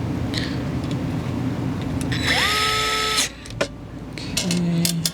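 Cordless electric screwdriver driving screws to fix a TV mounting plate. Its motor whines up and holds for about a second about two seconds in, then runs again at a lower pitch near the end.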